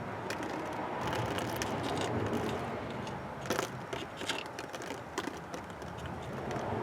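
Hand reamer scraping and clicking against the cut edge of a CPVC pipe, working off a small bump of plastic burr. A steady low hum runs underneath.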